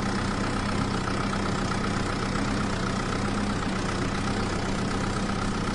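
Steady low engine hum, like a vehicle idling, with a faint high tone above it and no change in level.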